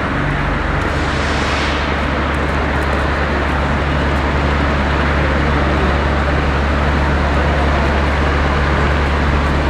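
Street traffic: a steady low engine rumble under road noise, with a vehicle hissing past about a second in.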